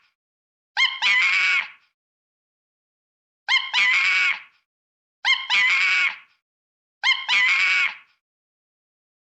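A harsh animal call, about a second long, made of a short first note and then a longer held one, repeated four times with pauses of one to two seconds. The calls look identical, as if the same recording is looped.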